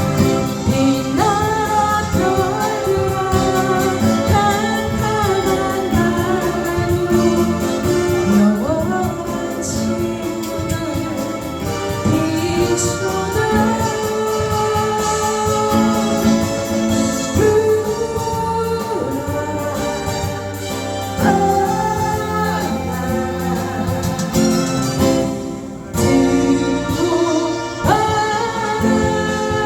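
A singer performing a ballad live over instrumental accompaniment, with a short break in the music about 26 seconds in.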